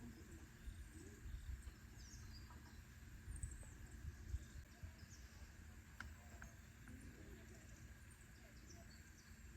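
Quiet outdoor ambience: a low rumble with faint, scattered high chirps and a single sharp click about six seconds in.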